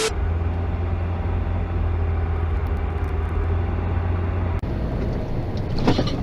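Car driving: steady low engine and road drone, changing abruptly about four and a half seconds in, with a few sharp clicks near the end.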